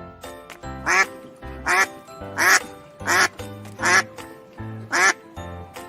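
A duck quacking about seven times in an even series, over children's background music.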